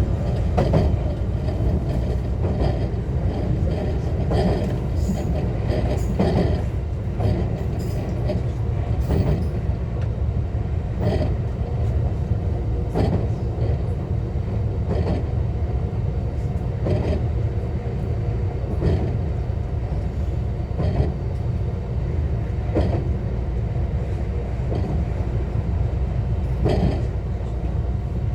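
JR West 125 series electric railcar running along the line, heard from inside the car: a steady low rumble with a short wheel clack over rail joints about every two seconds.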